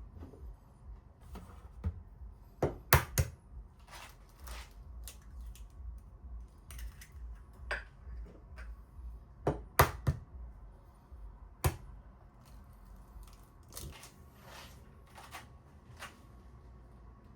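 Irregular sharp clicks and knocks, with a few louder knocks about three, ten and twelve seconds in.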